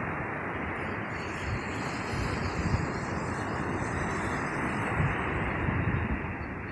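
Steady rushing noise of wind and surf at the shore, with wind gusting on the microphone a few times.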